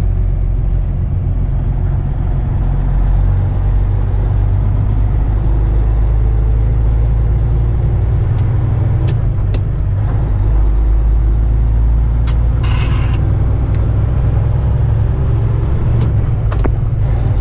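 Semi-truck diesel engine running under way, a loud steady low rumble heard from inside the cab. A few sharp clicks and a brief hiss come over it about two-thirds of the way through.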